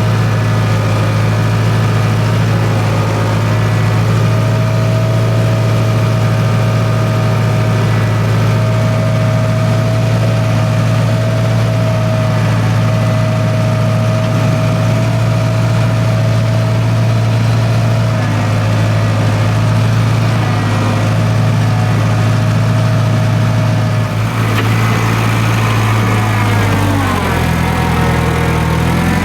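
International 270A backhoe's diesel engine running steadily at idle. Near the end its speed dips and then picks back up.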